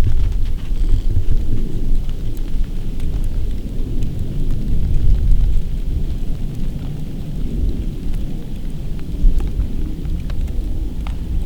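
Snowstorm wind buffeting the microphone: a loud, low rumble that swells and eases in gusts, with a few faint ticks on top.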